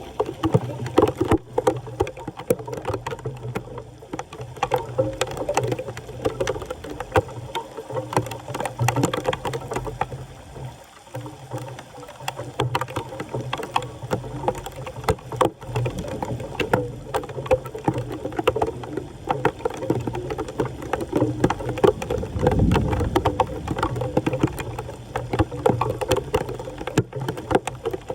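Floodwater sloshing and splashing, with many irregular knocks and scrapes, typical of debris being worked free from a clogged street drain under standing water.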